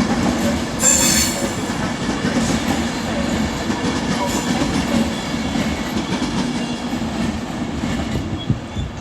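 Electric passenger train moving slowly through a station platform with a steady low hum. Its wheels give a high-pitched squeal about a second in, with fainter squeals after.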